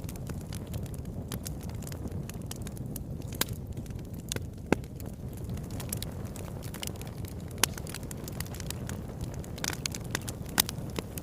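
Wood fire crackling in a fireplace: a steady low rumble of burning with scattered sharp pops and snaps, the loudest about five, seven and a half, and ten and a half seconds in.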